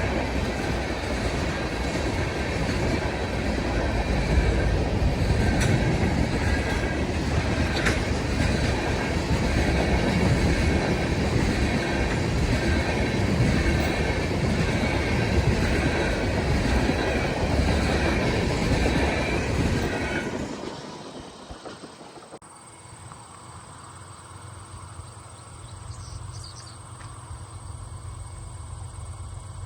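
Railroad cars rolling past with a steady clatter of wheels on rail and a high squeal from the wheels. The sound dies away about two-thirds of the way through, leaving a faint steady high chirring of insects.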